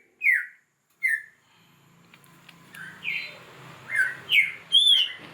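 Songbird giving repeated sharp chirps, each falling in pitch, about eight in all, the last few coming close together near the end. A steady low hum comes in underneath after about a second and a half.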